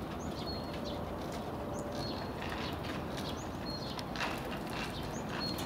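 Small birds chirping now and then over a steady outdoor background, with a few faint clicks.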